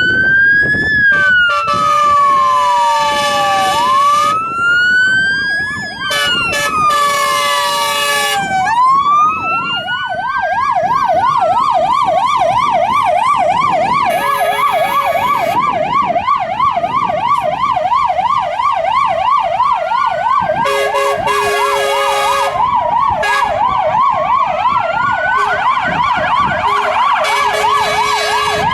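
Emergency sirens on two fire trucks, a Scania XT and a Renault Range D16. At first they make slow wailing sweeps, each rising quickly and falling more slowly. From about nine seconds in, a fast yelp runs continuously alongside a slower wail. Several blasts of the trucks' air horns sound over the sirens, with the longest near the end.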